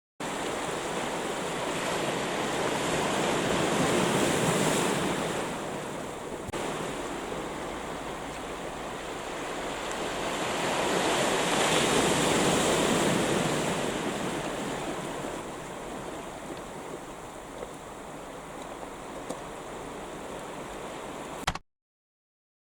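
Sea surf washing onto a cobble shore, swelling with a wave and easing off twice. Near the end there is a short click and the sound cuts off abruptly.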